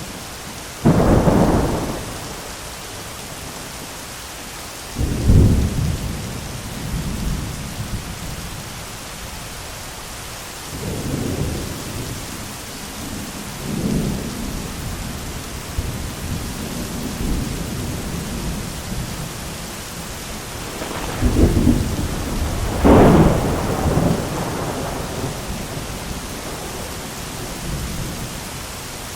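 Steady rain with repeated thunder: a sharp clap about a second in, another around five seconds, softer rolling rumbles through the middle, and two loud claps close together near the end.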